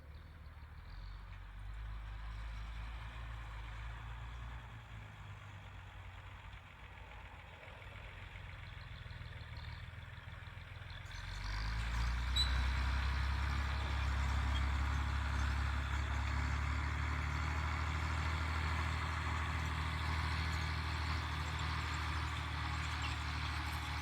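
Fiat 980 DT tractor's diesel engine running steadily; it becomes clearly louder about halfway through and stays that way.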